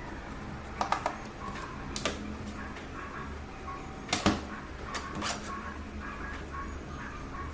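Small tools and metal parts clicking and tapping against phone parts. The sharp clicks come irregularly, the loudest pair about four seconds in, over a low steady hum.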